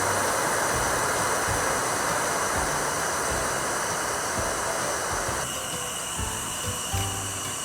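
A steady hiss over background music, cutting off suddenly about five and a half seconds in.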